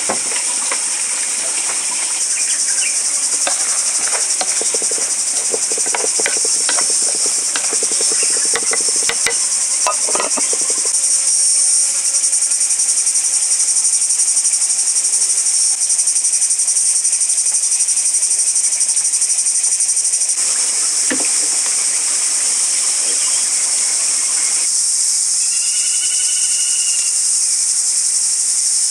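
Steady, high-pitched chorus of forest insects, with a run of knocks and clatter during the first ten seconds or so.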